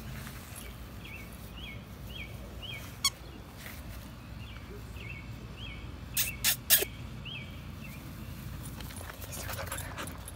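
A bird calling with short, falling chirps, about two a second, in two runs over a low steady background rumble. A little past the middle, three sharp clicks in quick succession are the loudest sounds.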